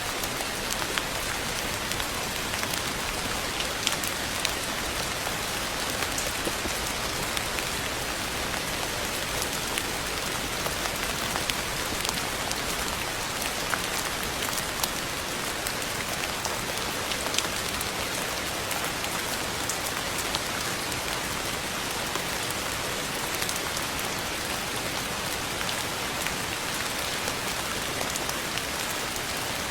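Steady rain falling on a hard surface, a dense even hiss with many sharp individual drop taps scattered through it.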